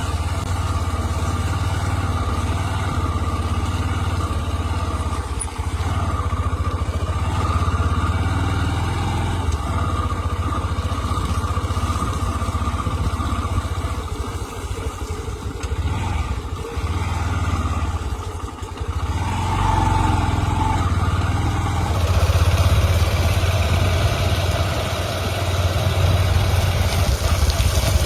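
Heavy diesel engines of JCB 3DX backhoe loaders and a tipper truck running steadily as a low drone while they work, loading mud. About three quarters of the way through, a steady hiss joins in.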